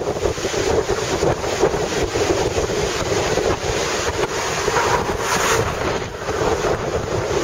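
Strong wind buffeting the microphone over a rough, typhoon-churned sea, the surf making a steady rush of noise. A brighter surge of noise comes about five seconds in.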